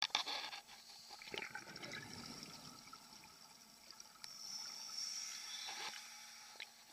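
Scuba divers' exhaled air bubbles gurgling underwater, in irregular bursts with a few sharp clicks.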